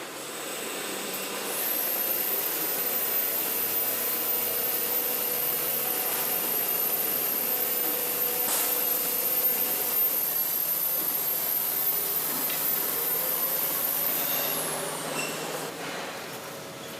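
A machine or power tool runs with a very high-pitched whine over a steady noisy hum, then winds down with a falling whine near the end.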